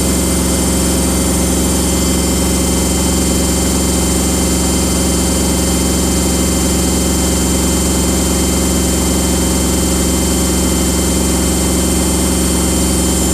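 Samsung washing machine running its drum at high speed in the spin, a loud, steady hum and whine with several constant tones.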